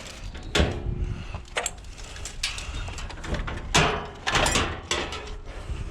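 Scrap metal being sorted by hand: a series of clanks and scrapes as pieces are moved and dropped, the loudest a little under four seconds in.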